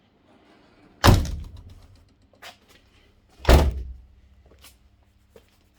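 Two heavy slams of a Ford Sierra Cosworth's body panels being shut, about two and a half seconds apart, each ringing briefly as it fades.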